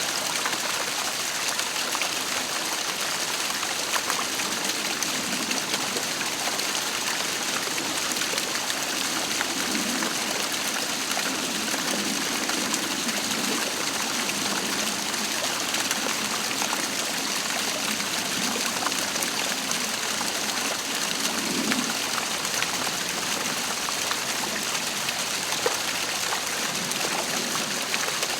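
Waterfall: falling water running steadily with an even rushing splash.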